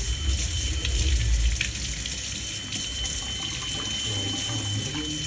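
Kitchen tap running into a sink as spring onions are rinsed under it, a steady splashing hiss with a low rumble that stops about a second and a half in.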